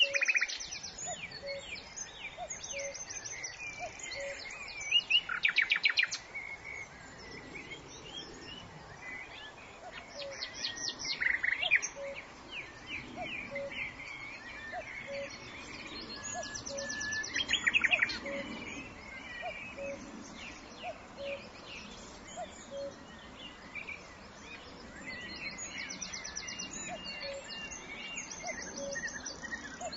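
Birds singing and calling, with rapid high trills that get loud about five, eleven and seventeen seconds in over a background of many small chirps. A soft short note repeats evenly underneath, a little more than once a second.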